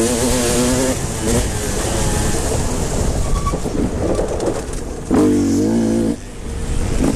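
Motocross motorcycle engines revving hard as bikes race past, their pitch rising and falling with the throttle and gear changes. One bike is loudest from about five seconds in and cuts off abruptly about a second later, then engines pick up again near the end.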